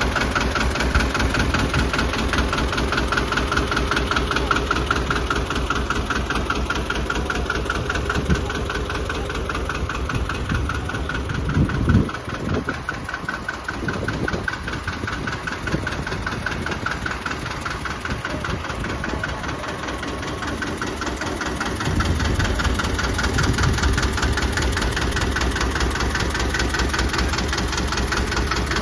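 Two-cylinder Deutz tractor's air-cooled diesel engine idling with a steady, even knock. About twelve seconds in there is a sharp knock, the low part of the sound fades for a while, and then it comes back fuller near the end.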